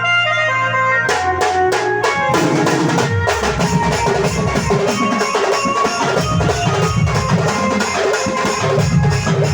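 Band music: held melody notes, then about a second in a run of drum hits leads into a steady drum-kit beat with bass drum and snare under the melody.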